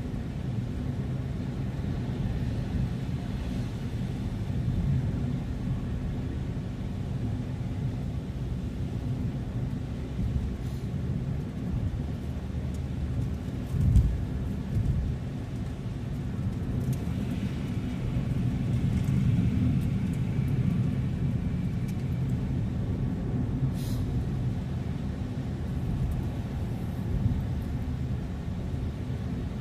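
Car driving along: a steady low rumble of engine and tyres on the road. A dull thump about halfway through, and a short click a few seconds from the end.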